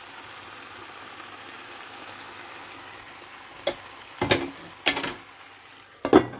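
Potatoes and green capsicum in masala sizzling steadily in a stainless steel pot, then four sharp metal clanks from about three and a half seconds in, the last as a glass lid is set onto the pot.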